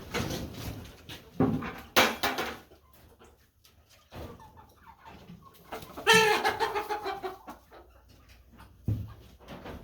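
Chickens clucking, with a couple of sharp knocks about two seconds in and a longer drawn-out call a little after six seconds in.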